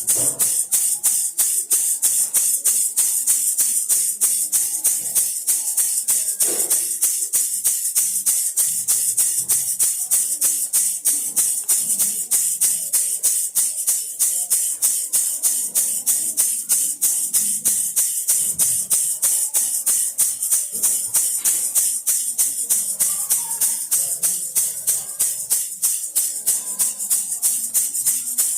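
Baby rattle shaken in a fast, even rhythm, each shake a bright, high-pitched rattle of beads.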